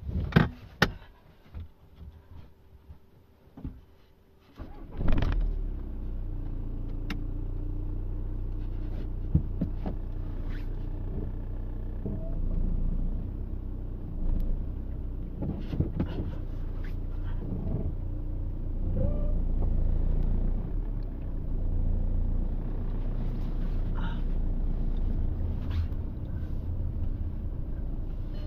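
A few clicks and knocks, then a car engine starts about five seconds in and idles steadily, heard from inside the cabin, with occasional knocks and rustles over it.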